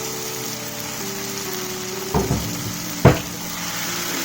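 Tomato-onion masala sizzling in a frying pan, an even hiss, under soft background music; two sharp knocks about two and three seconds in.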